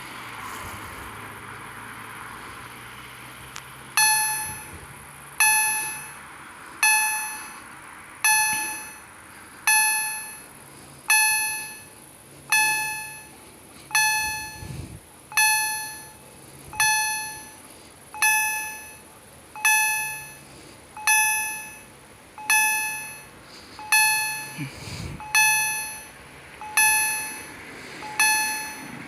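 Level crossing's EHL-S10 electronic warning bell starting about four seconds in, then striking evenly about once every 1.4 seconds, each ringing stroke decaying quickly: the crossing's warning is activated for an approaching train.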